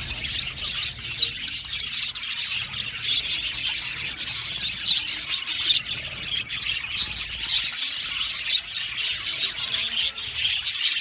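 A flock of budgerigars chattering and warbling together: many overlapping short chirps and squawks with no break.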